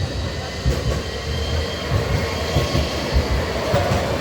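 A train or tram pulling away: a steady low rumble with irregular thuds of wheels over the rail joints and a faint high wheel squeal.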